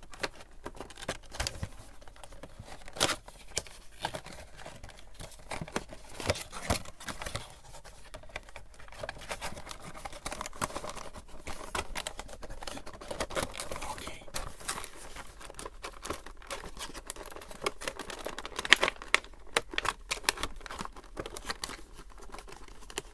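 Crinkling plastic packaging and cardboard box being handled as a vinyl figure is worked back into its box, with irregular rustles and sharp clicks and snaps, the loudest a little before the end.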